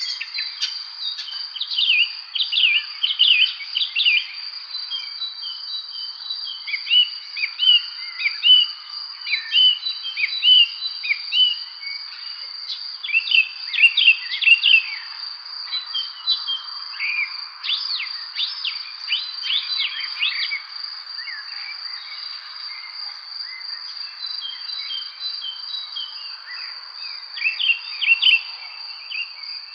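Evening birdsong: several songbirds chirping and singing in quick runs of short notes, over a steady high-pitched insect trill that never stops.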